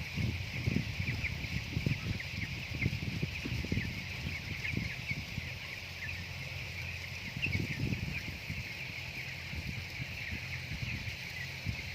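A flock of broiler chickens cheeping together in a dense, continuous chorus of high peeps, with irregular low knocks throughout.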